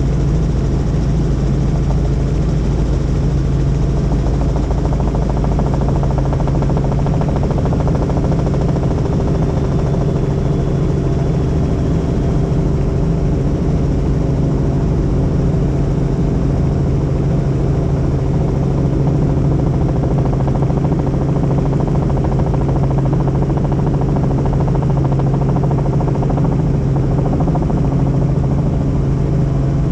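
Helicopter in flight, its engine and rotor making a steady, loud drone with a strong low hum.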